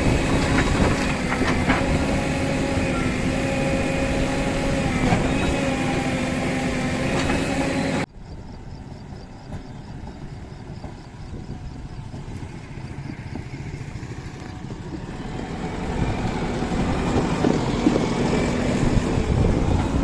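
Diesel engine of heavy earth-moving machinery running steadily with an even hum. It cuts off abruptly about eight seconds in to a quieter engine sound that grows louder toward the end.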